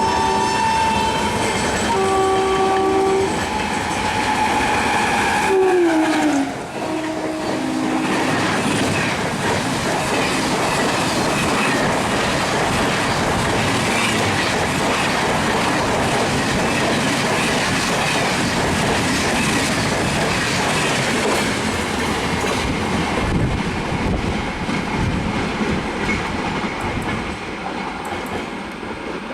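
A train horn sounds in steady blasts, then drops in pitch as the train passes close by. A second, short lower blast follows. After that comes a long, steady rush of train wheels clattering over the rail joints as a train passes, fading near the end.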